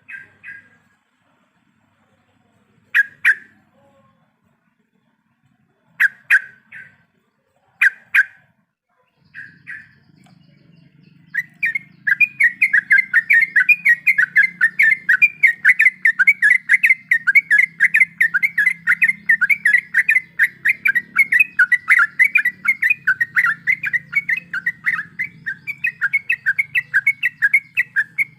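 Yellow-vented bulbul (trucuk) song: a few short separate calls spaced a few seconds apart, then from about eleven seconds in a long, rapid run of chattering notes (the 'ropel panjang' roll) that continues without a break.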